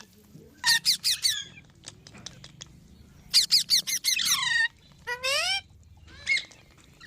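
Pet green parrot squawking in harsh, rapid runs of calls: one run about a second in, a longer one in the middle, then two short calls near the end.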